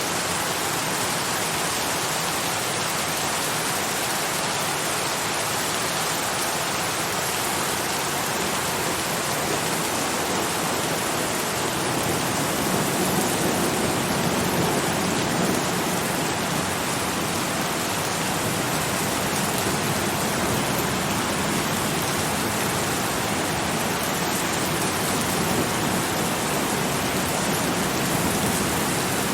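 Steady, dense rainfall: an even hiss of many drops, slightly fuller from about halfway through.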